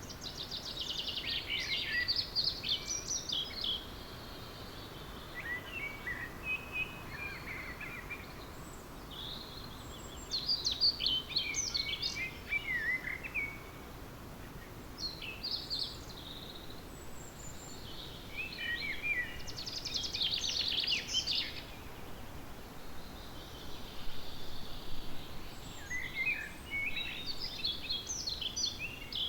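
Songbirds singing in an early-morning chorus. Bursts of song two to three seconds long come every few seconds, several of them falling in pitch toward the end, over a steady background hiss.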